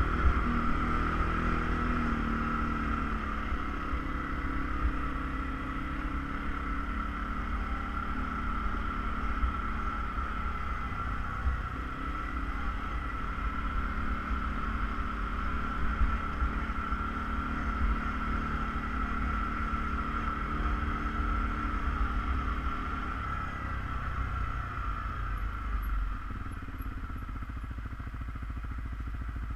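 ATV engine running steadily as it rides along, with a constant high whine over the engine note. The engine note drops and gets a little quieter near the end.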